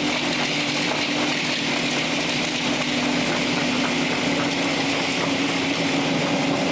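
Machinery running steadily, with a constant hum under a wide mechanical noise.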